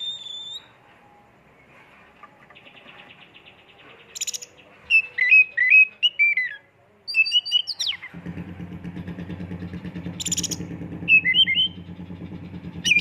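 Oriental magpie-robin (kacer) singing: varied whistled phrases that glide up and down, broken by sharp, high-pitched 'shot' notes. About eight seconds in, a steady low motor hum starts up underneath the song.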